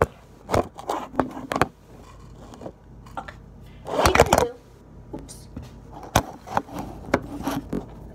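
Kitchen items and packaging being handled: several sharp knocks and clicks, with a short noisy rustle about four seconds in.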